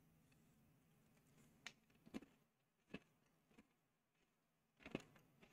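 Near silence, with a few faint short crunches as a crisp biscuit is bitten and chewed.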